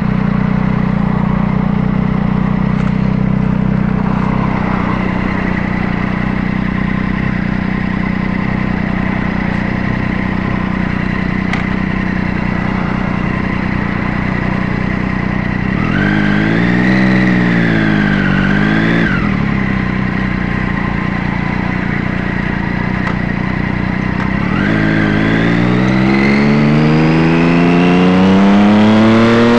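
Triumph Daytona sportbike engine idling steadily, with a brief rev that rises and falls about halfway through, then pulling away with its pitch rising for the last five seconds or so.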